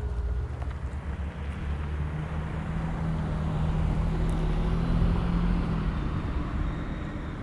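A car driving past, its engine hum and tyre noise swelling to a peak about five seconds in and then fading.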